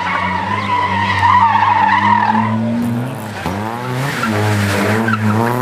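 A car's engine running hard during a cone-course run, with a long, steady tyre squeal through the first half as the car slides through a turn. In the second half the squeal stops and the engine revs rise and fall several times with throttle and gear changes.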